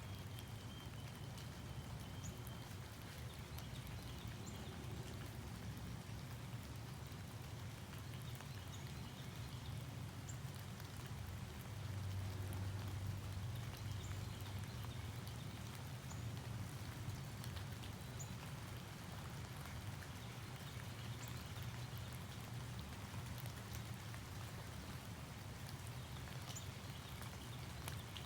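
Quiet outdoor morning ambience: a steady low rumble that swells slightly about twelve seconds in, with light scattered ticks of dripping and a few faint high chirps.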